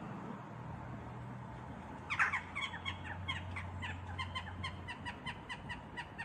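A flock of birds calling in short, sharp notes, several overlapping and repeated a few times a second, starting about two seconds in. The birds are gathering in a treetop at dusk, which the uploader takes for a rook roost.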